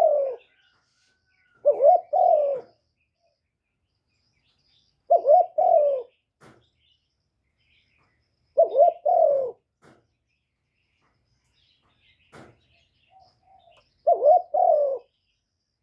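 Spotted dove cooing: a short phrase of about three low notes repeated every three to four seconds, the first cut off at the start. Faint high chirps of small birds sound between the phrases.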